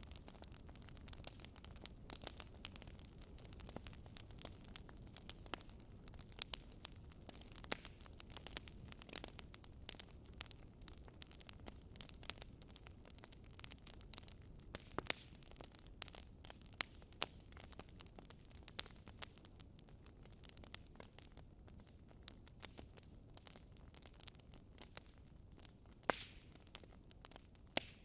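Wood fire crackling in a fireplace: irregular sharp pops and snaps over a low steady rumble, with a louder pop near the end.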